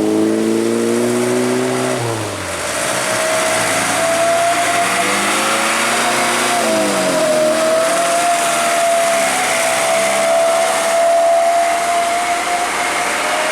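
Motor vehicle engine running under load, its pitch rising for about two seconds and then dropping off sharply, as at a gear change or lifting off. A steady high whine and road noise follow while the engine pitch wavers up and down.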